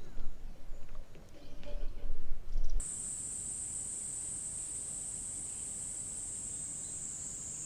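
Insects shrilling in one steady, high-pitched, unbroken drone that starts abruptly about three seconds in. Before it there is uneven low rumbling with a few small scattered sounds.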